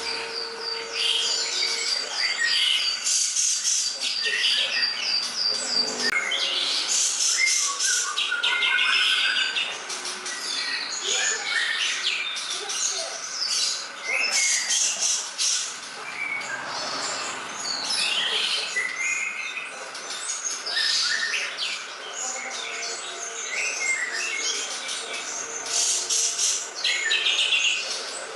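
Green leafbird (cucak ijo) singing a long, varied song of rapid chirps, whistles and trills, with a fast run of evenly repeated high notes in the first few seconds.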